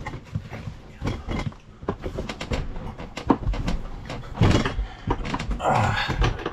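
Handling noises from working a bidet hose onto a hard-to-reach connector behind an RV toilet: irregular clicks and knocks with scraping and rubbing, busiest between about four and a half and six seconds in.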